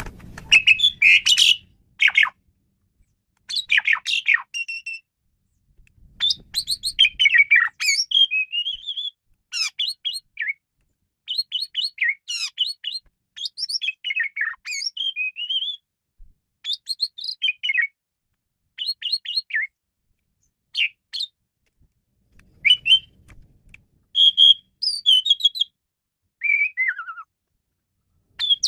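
Male Asian pied starling singing its varied song: short, rapid phrases of chattering chirps, squeaks and whistles, one after another with brief pauses between them, including a falling whistle near the end.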